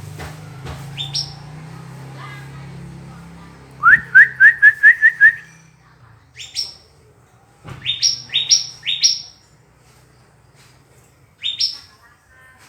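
Yellow-vented bulbul (trucukan) calling: a quick run of about seven short rising notes about four seconds in, then sharp, high, upswept calls, one alone, then three in a row, then one more near the end.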